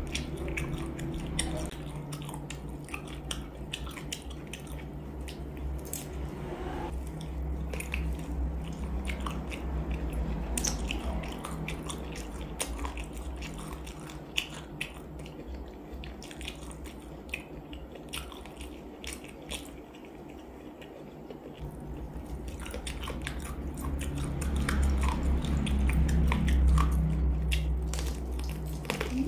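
Close-miked biting and chewing of spicy chicken feet, with many small sharp clicks and crunches as the feet are gnawed. It gets louder a few seconds before the end.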